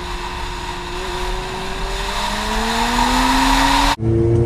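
Stage 2+ tuned Audi TT's engine pulling under acceleration, its note rising slowly and growing louder over heavy wind and road noise. About four seconds in, a sudden cut to a lower, steadier engine note.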